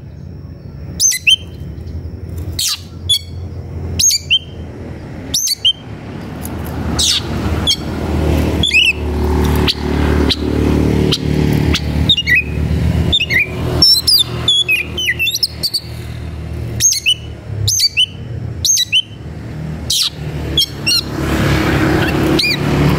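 Oriental magpie-robin (kacer) calling in sharp, short sweeping notes, about one or two a second, in an excited, combative song. A low vehicle engine rumble builds up underneath from about a quarter of the way in and stays.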